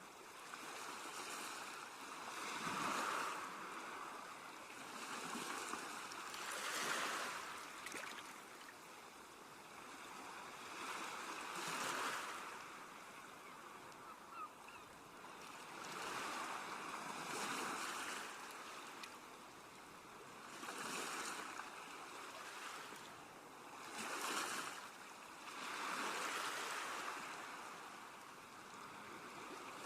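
Ocean waves breaking and washing up the shore in slow swells every four to five seconds, with no music.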